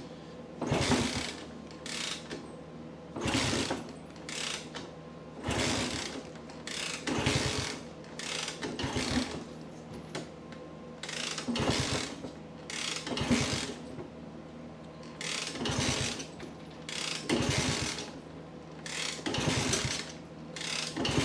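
Honda C200 being kick-started over and over with the choke on: about ten kicks, one every two seconds or so, each a ratcheting whir as the kick-start gear engages and the engine turns over without catching.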